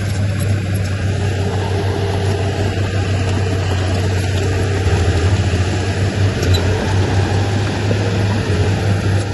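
Heavy diesel engine of earthmoving machinery running steadily with a low drone, a little louder from about halfway through.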